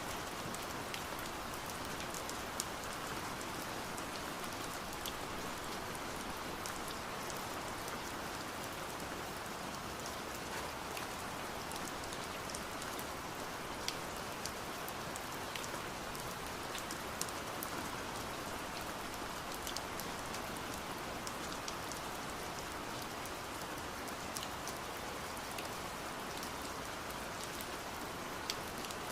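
Steady rain hiss with scattered, sharp taps of raindrops striking window glass.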